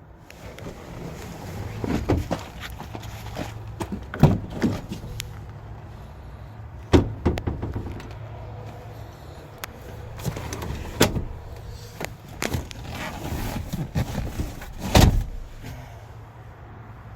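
Irregular clunks and knocks from a pickup truck's cab and doors being handled, the loudest about four seconds in and near the end, over a low steady hum.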